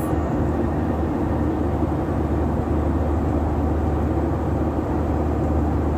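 Steady drone of an airliner's engines and rushing air, heard from inside the passenger cabin.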